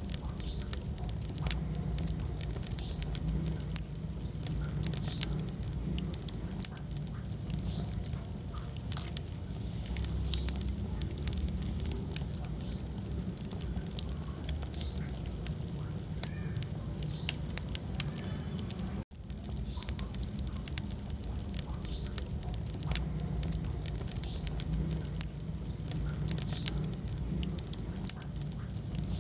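Wood fire in a fireplace crackling, with frequent sharp pops over a low steady rumble of the flames. The sound cuts out for an instant about two-thirds of the way through.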